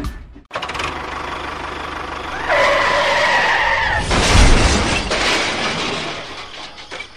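Vehicle motor noise: a rough, hissing run with a steady whine for about a second and a half partway through, then a louder low rumble that fades away.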